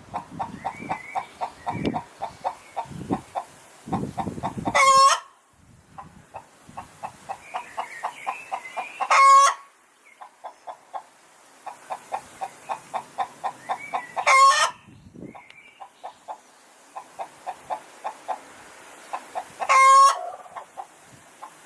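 Hen cackling: runs of quick, short clucks that build up to one loud drawn-out squawk, repeated four times about five seconds apart. This is the cackle hens give around laying an egg.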